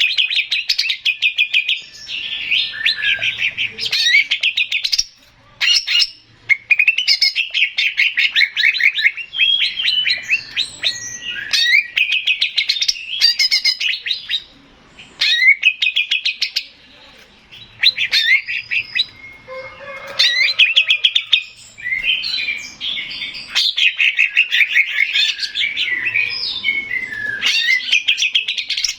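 Male green leafbird (cucak ijo) singing: long runs of rapid chattering trills mixed with quick whistled glides, broken by brief pauses of about a second.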